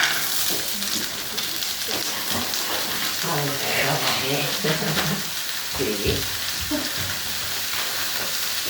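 Whirlpool washing machine running, a steady hissing, crackling noise from inside the drum.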